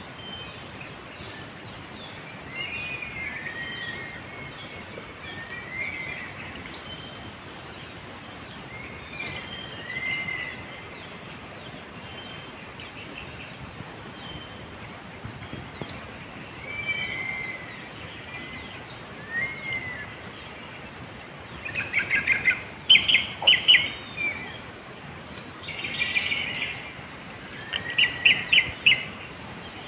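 Philippine hanging parrots (kulasisi) calling: scattered short chirps that rise and fall in pitch, with bursts of rapid chattering notes about two-thirds of the way in and again near the end. A steady high-pitched background whine runs underneath.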